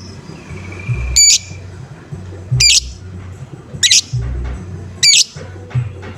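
Lovebird giving short, harsh squawking calls, four in a row about every 1.2 seconds, over background music with a steady low beat.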